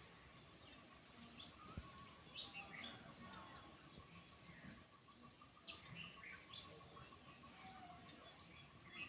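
Faint chirps of birds: a scatter of short, quick falling notes, heard over a faint steady high tone.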